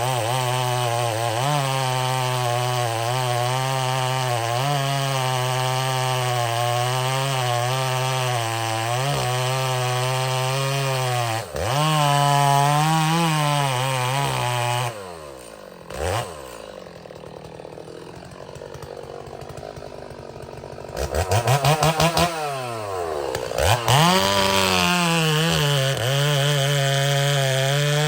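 Chainsaw cutting under load, its engine note wavering as it works through the wood. About fifteen seconds in it drops back to a much quieter running for several seconds, then revs up in quick blips and goes back to full-throttle cutting.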